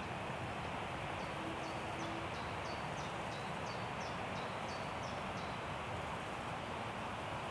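Wind rushing steadily through forest trees, with a songbird calling a run of short, high, falling notes, about two a second, through the middle.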